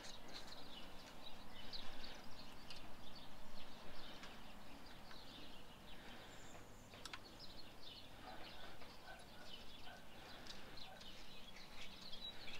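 Quiet background with birds chirping, short scattered chirps throughout, and one small sharp click about seven seconds in.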